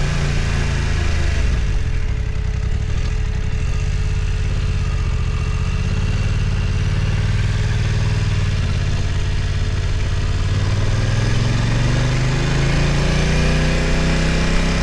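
BMW F900 XR's parallel-twin engine under way at low revs. The note drops a second or two in, stays low, climbs again about ten seconds in and eases back near the end.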